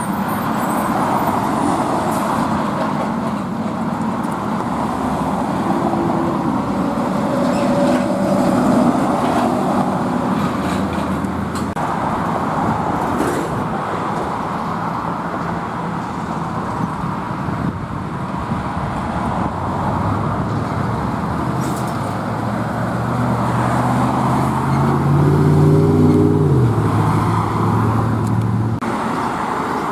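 Steady road traffic noise from passing vehicles. About twenty seconds in, a heavy engine's drone comes up and rises in pitch, loudest around twenty-six seconds, as a truck passes.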